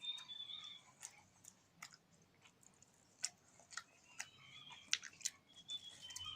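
Close-up eating sounds: a person chewing food, with irregular soft clicks and smacks of the mouth, fairly quiet.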